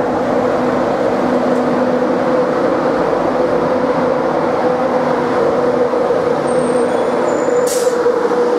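Class 91 electric locomotive arriving slowly into a platform and passing close by: a steady running hum with wheel-and-rail noise, a thin high squeal late on, then a short sharp noise near the end.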